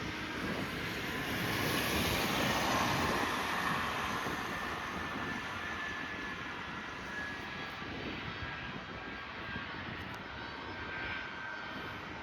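Jet airliner's engines, a dense rushing roar that swells to its loudest about two to three seconds in and then slowly eases off as the aircraft passes.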